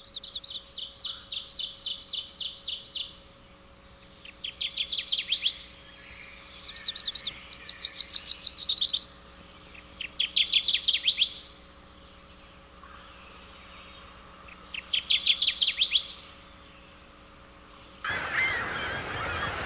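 Magnolia warbler singing: about five short songs of rapid, high repeated notes with pauses between them, over a faint steady hum. Near the end the song gives way to the noise of surf and wind.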